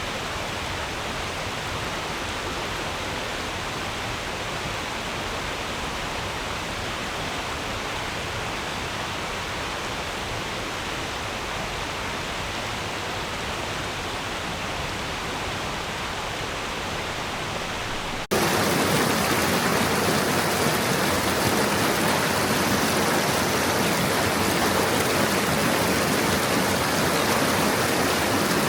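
Stream water flowing over stones, a steady rushing babble. About two-thirds of the way through it cuts abruptly to a louder, brighter stretch of rushing water.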